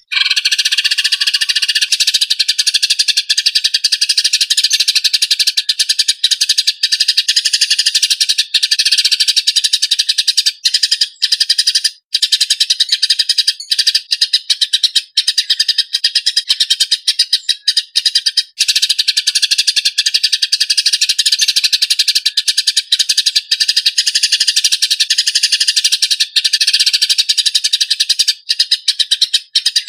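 Eurasian tree sparrows giving fast, tightly packed, harsh fighting chirps in an unbroken stream. It starts abruptly.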